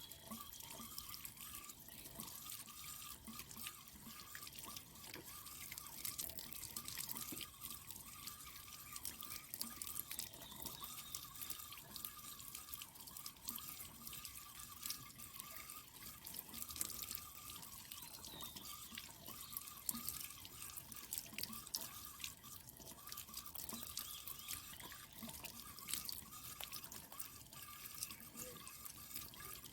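Water dripping and trickling with many small irregular splashes and clicks, from washing a water-tank filter by hand.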